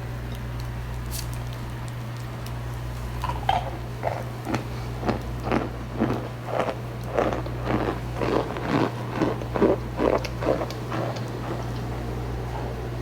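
A mouthful of starch chewed close to the microphone, crunching about twice a second from about three seconds in until near the end, over a steady low hum.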